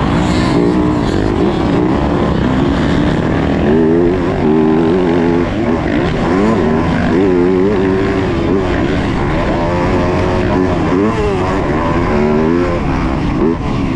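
Yamaha YZ250F four-stroke single-cylinder motocross engine under racing load, its pitch rising and falling again and again as it revs up and shuts off.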